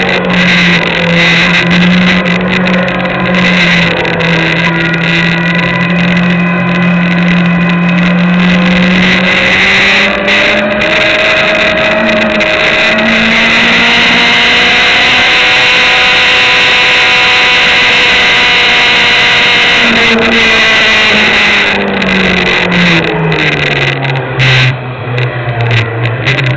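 Sport motorcycle engine at racing speed, heard from a camera mounted on the bike, with heavy wind rush. It holds steady revs for about ten seconds, breaks briefly about eleven seconds in, then climbs slowly in pitch and holds high for several seconds before falling away near the end as the bike slows.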